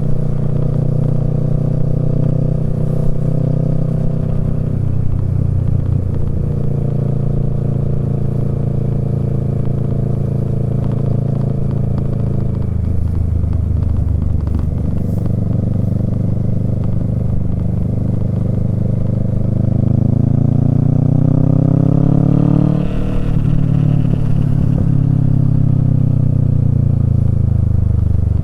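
Kawasaki Z650's parallel-twin engine through a Yoshimura Alpha exhaust, heard from the rider's seat under way. Revs hold fairly steady, dip twice, then climb for about eight seconds before a sudden drop in pitch, after which they fall away slowly.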